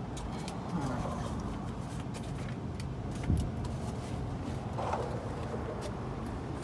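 A truck's engine running with a steady low hum, and a single thump a little over three seconds in.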